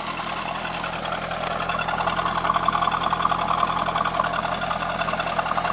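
A 2002 Corvette C5's 5.7-litre V8 idling steadily.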